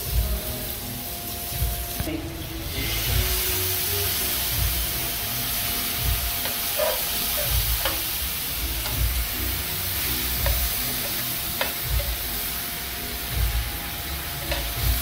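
Octopus sizzling in butter and garlic in a frying pan, a steady hiss, with the occasional click of metal tongs against the pan as the pieces are turned.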